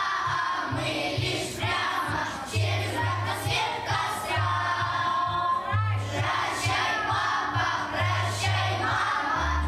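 A class of young schoolchildren singing together in chorus over a musical accompaniment with a pulsing bass line.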